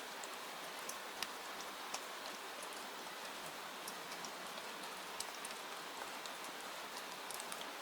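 Steady rain, an even hiss with scattered sharp ticks of drops or crackles throughout.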